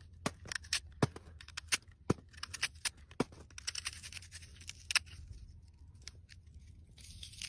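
Irregular sharp clicks and crackles of something being handled, over a steady low hum. The loudest click comes about five seconds in.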